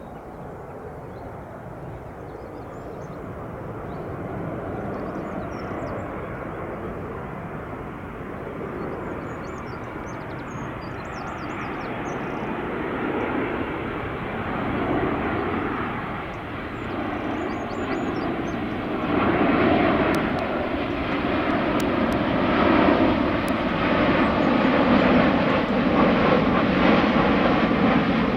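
Aeroplane coming in to land, its engine roar growing steadily louder as it approaches. Birds chirp faintly in the background.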